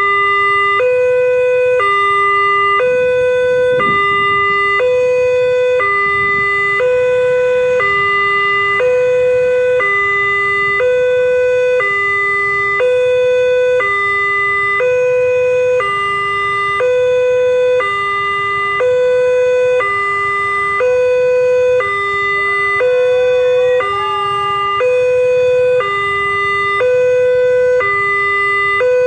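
Railway level-crossing warning alarm sounding a repeating two-tone low-high signal, changing pitch about every 0.7 s, with a low background rumble.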